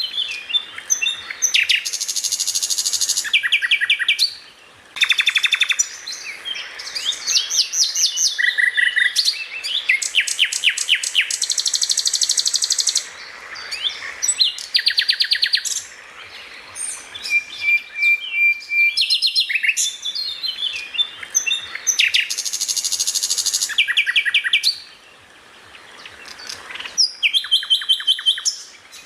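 Greater green leafbird (cucak ijo) singing a loud, varied song of quick chirps and whistles broken by fast rattling volleys of repeated notes, the 'tembakan' bursts prized by bird keepers. The song pauses briefly twice, about five seconds in and near the end.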